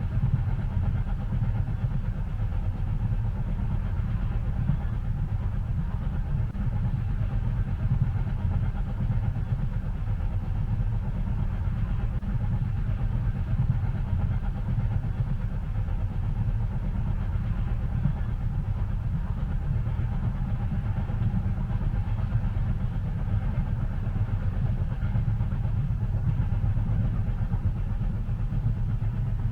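Steady low rumble of a train running, heard from inside a passenger carriage, with no distinct clacks or changes.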